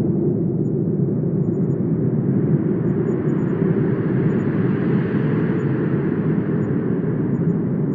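Wind blowing as a steady low rush that swells slightly in brightness through the middle seconds and eases off again near the end.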